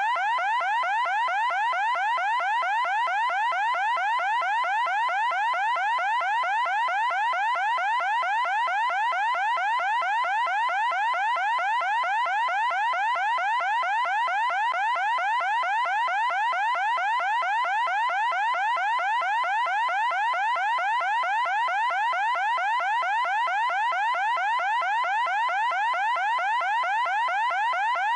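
Electronic alarm sounding non-stop: a fast, even train of short rising sweeps, several a second, at a steady loud level.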